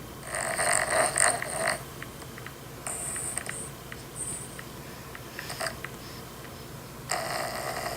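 Dog snoring: a rattly, wheezy breath every two to three seconds, the first and longest about a second in.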